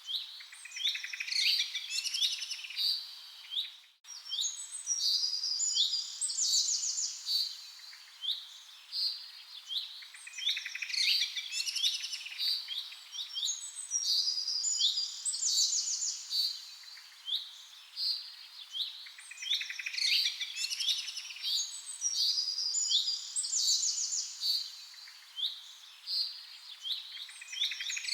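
Songbirds chirping and singing in dense, overlapping phrases of quick high trills and tweets over a faint steady hiss, with a brief sudden dropout about four seconds in.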